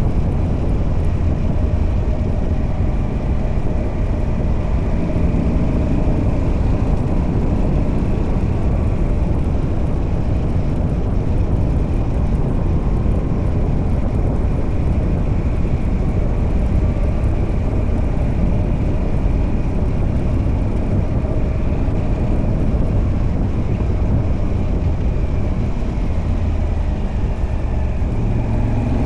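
Moto Guzzi V85TT's air-cooled transverse V-twin running steadily under way, heard through the stock exhaust fitted with a Mistral decat pipe.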